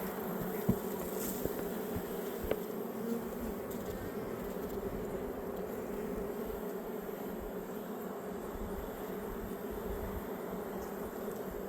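Honeybees buzzing steadily around an opened hive, the colony stirred up by the inspection. Two short knocks come about a second and two and a half seconds in.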